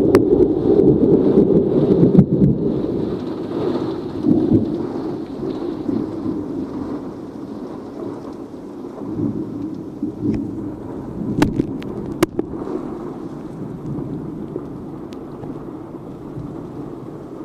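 Thunderstorm downpour: a dense rush of heavy rain with a low rumble, loudest over the first few seconds and then easing off. A few sharp clicks come about eleven and twelve seconds in.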